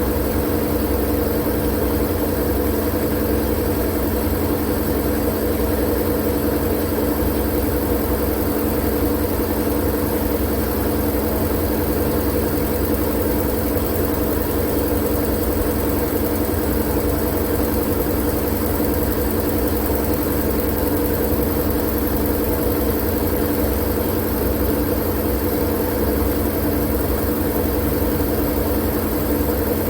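Steady, unchanging white-noise track with a constant low hum and a few steady tones in it, like a machine running evenly.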